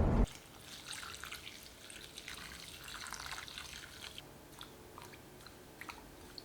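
Faint, irregular water drips and small splashes, scattered ticks and little plinks with no steady rhythm.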